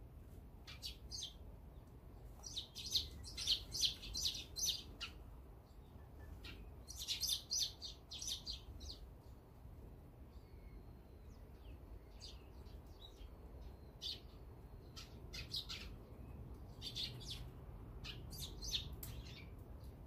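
Small songbirds chirping in several bursts of quick, short chirps, loudest about three and seven seconds in, over a faint low background rumble.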